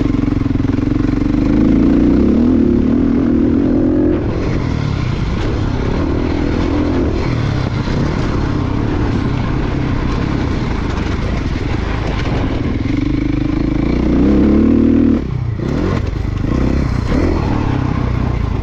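Motocross dirt bike engine ridden hard, the revs rising and falling with the throttle. It pulls hard twice, at the start and again near the end, then the throttle snaps shut.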